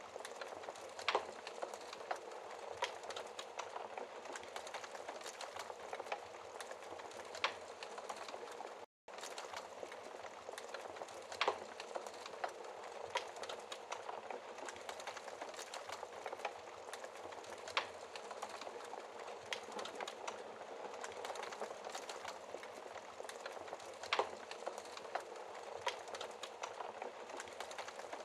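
Wood fire crackling in a fireplace: a steady soft hiss with sharp pops every few seconds. The sound briefly drops out about nine seconds in.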